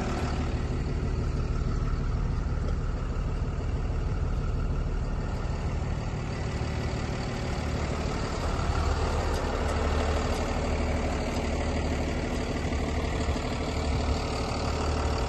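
Thermo King T-680 truck refrigeration unit running steadily, a low engine-like drone.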